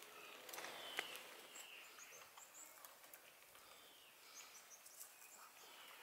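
Faint calls of small birds: short high chirps and falling notes scattered through, with one sharp click about a second in.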